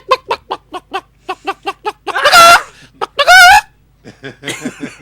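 A man imitating a chicken with his mouth: a run of quick short clucks, then two loud warbling squawks.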